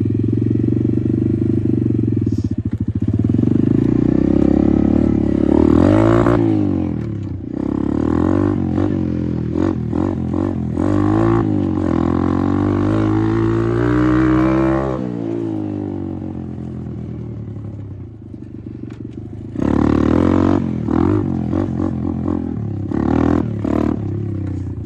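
Apollo RFZ 125 dirt bike's small single-cylinder engine being ridden. The revs climb and fall several times, with a long pull through the middle, then ease off to a low run before a few quick throttle blips near the end.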